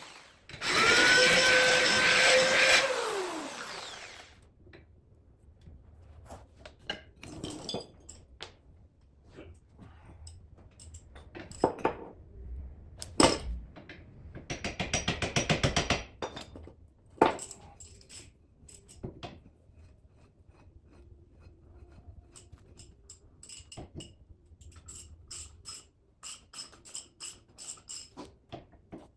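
A handheld power tool runs for about three seconds, its motor spinning up and then winding down. After that come scattered clanks and clicks of tools and metal parts being handled, with a quick run of rapid, even clicks about midway.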